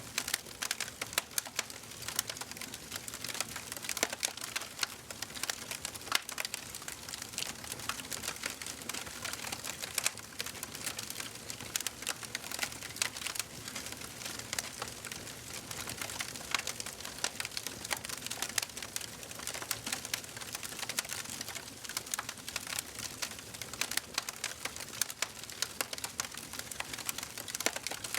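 Wood fire in a fireplace crackling steadily, with dense small pops and snaps over a soft hiss of flame.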